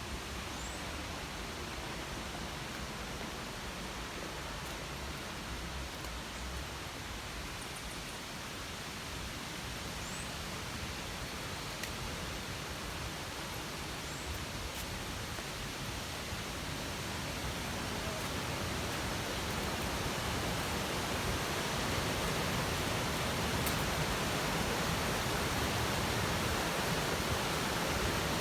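Steady rushing of a waterfall, getting louder past the middle.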